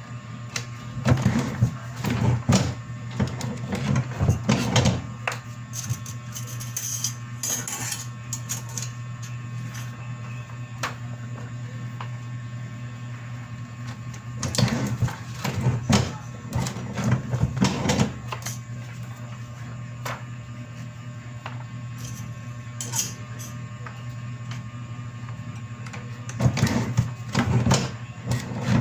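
Printer running with a steady machine hum, bursts of rapid mechanical clatter coming about every twelve seconds as it feeds and prints pages, three times over.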